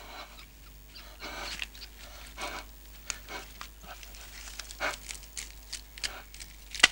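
Heavy, panting breaths, irregular and about a second apart, with small ticks between them and one sharp click near the end.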